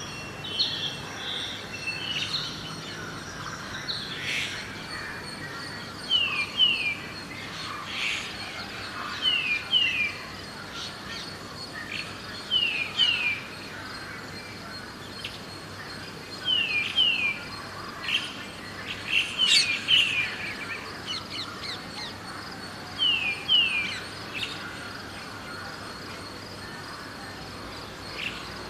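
Birds chirping at dawn: one bird repeats a call of two quick falling notes about every three seconds, with other scattered chirps around it. A steady high insect-like tone runs underneath.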